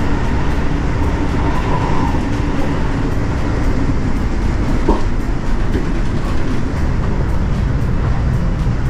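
Amtrak Acela train running, heard inside the passenger car: a loud, steady rumble of rail and car noise, with one short click about five seconds in.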